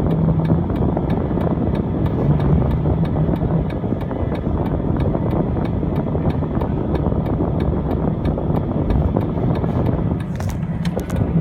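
Car driving on a snowy road, heard from inside the cabin: a steady rumble of engine and tyre noise with a low drone, and a faint regular ticking about three times a second.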